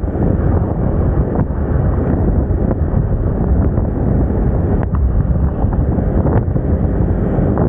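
Steady wind buffeting the microphone of a moving Moda Moca 110 scooter, a loud low rumble with the scooter's running noise underneath.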